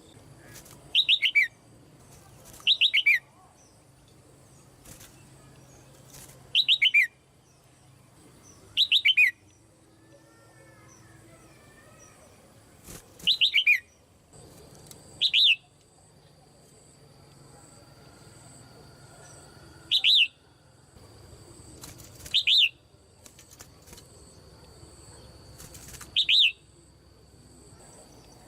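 A caged female red-whiskered bulbul calling: about nine short, loud bursts of quickly falling notes, a few seconds apart, with faint twittering between them.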